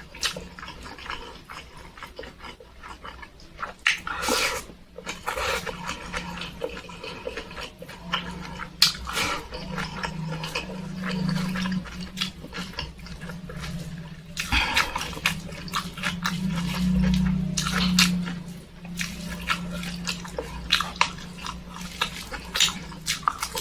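Close-miked chewing and lip-smacking of a person eating fried tempe with sambal, with irregular wet clicks and crunches throughout.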